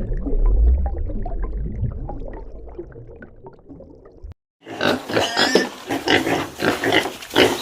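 A large animal's deep, rumbling roar fading away over about four seconds; then, after a brief silence, pigs grunting and oinking in quick, loud succession.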